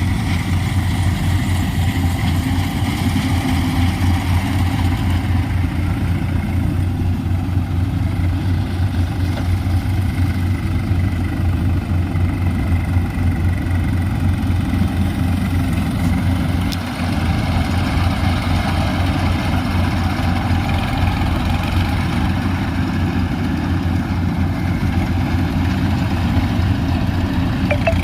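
New Holland tractor's diesel engine running steadily with an even low throb, dipping briefly in loudness about two-thirds of the way through.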